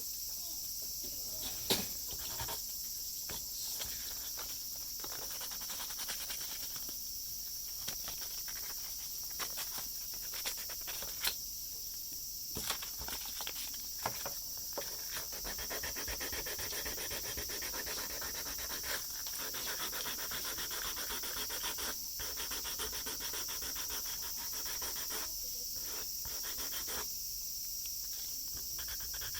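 Filing or sanding down the hardened 3D-pen plastic on a repaired eyeglass frame: irregular rubbing strokes with a few sharp clicks, done to make the repair round and smooth. A steady high hiss runs underneath.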